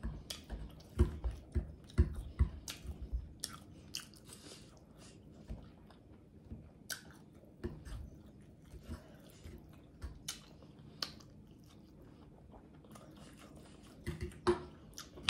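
Close-up chewing and smacking mouth sounds of someone eating fried pork chops and greens, with many short sharp clicks, busiest in the first few seconds and thinning out after.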